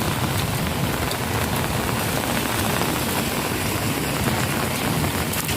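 Heavy rain falling steadily, a dense, even hiss with scattered drop ticks.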